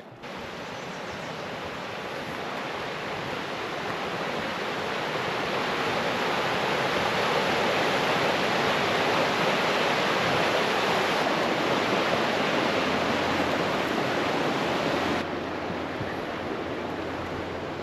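Rushing creek water, a steady even rush that grows louder over the first several seconds, then drops back a little near the end.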